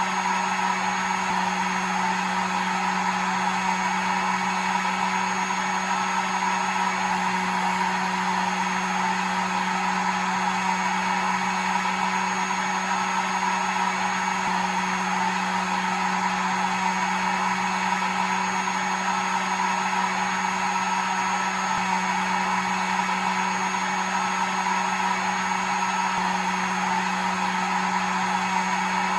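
Hair dryer running steadily with an unchanging motor hum and airflow hiss, and a faint high whine above.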